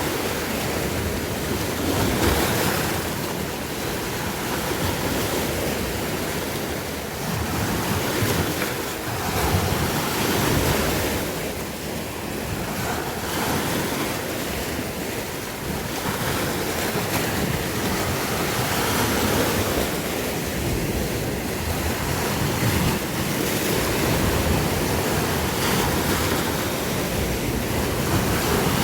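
Sea waves breaking and washing on the shore in a steady surge that swells and eases every few seconds, with wind rumbling on the microphone.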